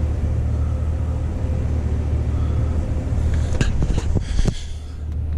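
A 6.2-litre V8 idling steadily with a low rumble, heard from inside the cabin with the heater fan blowing. Several sharp clicks and knocks come from about three and a half to four and a half seconds in.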